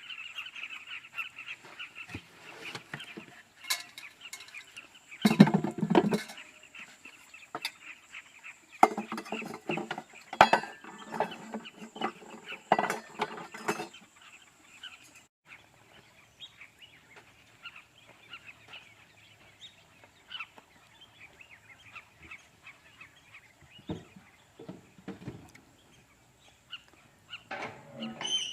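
Birds calling in the wild, with loud honking calls about five seconds in and a run of calls from about nine to fourteen seconds, over a busy background of higher chatter that fades after about fifteen seconds.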